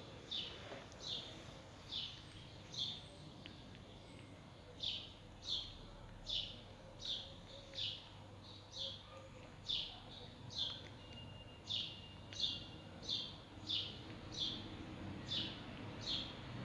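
A bird repeating a short, high chirp over and over at a steady pace, about three chirps every two seconds.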